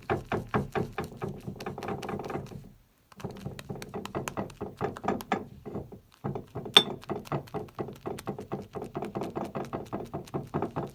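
Synthetic shaving brush whipping lather in a shaving scuttle: fast, rhythmic swishing strokes, about five a second, pausing briefly twice. A sharp click, the loudest sound, comes just before the second pause ends.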